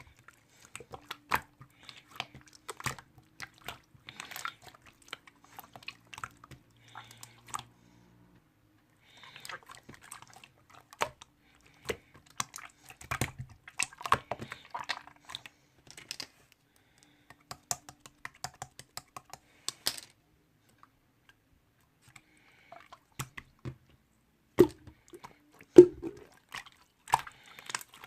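Close-miked eating sounds: chewing and crunching snacks, heard as irregular clusters of sharp clicks and crunches with short pauses, and a couple of louder pops near the end.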